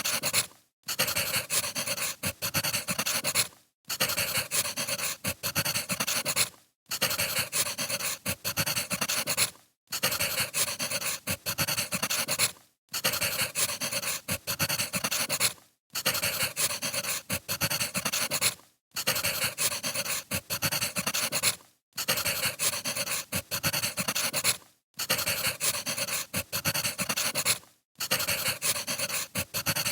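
Wood fire crackling and popping, a short recording looped about every three seconds with a brief cut-out between repeats.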